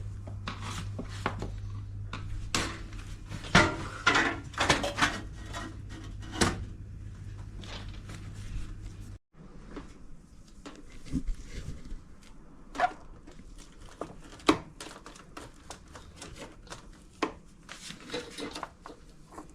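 Scattered clicks, knocks and rattles of hands and tools working on a washing machine's plastic and metal parts during disassembly. A steady low hum runs underneath and stops about nine seconds in.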